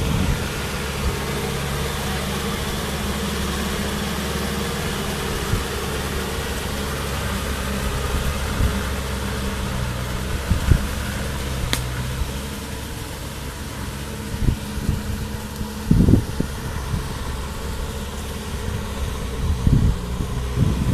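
Kubota M6040 tractor's diesel engine running steadily, with a few scattered thumps.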